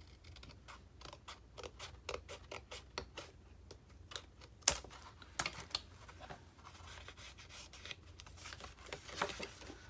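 Scissors snipping a strip of fabric trim: a quick run of small clicks with one sharper snip a little after the middle, then light rustling as the trim is handled.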